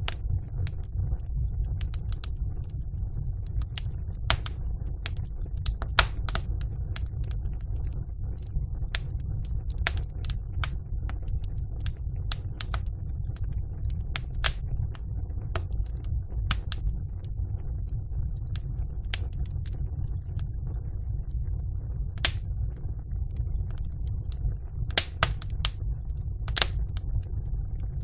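Wood fire burning in a fireplace: a steady low rumble of the flames with irregular crackling and sharp pops from the burning logs, a few louder snaps scattered through.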